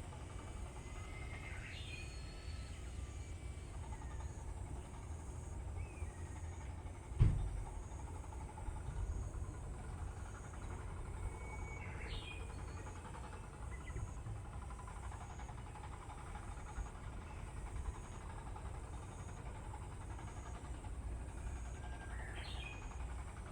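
Outdoor ambience: a steady low rumble with a bird giving a short chirping call three times, about ten seconds apart, and a single dull thump about seven seconds in.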